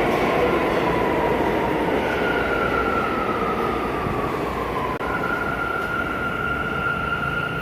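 Subway train running, a steady rumble under a high whine that slides down in pitch over the first five seconds and then holds at one steady pitch.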